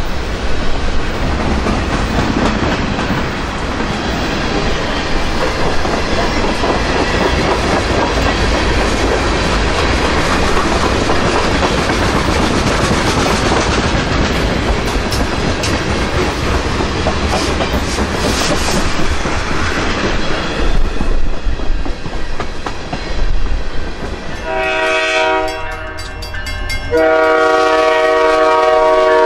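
Freight cars rolling past, boxcars and tank cars rumbling and clattering over the rails. Near the end a diesel locomotive's air horn blows two blasts, the second louder and held, as it comes up to a road grade crossing.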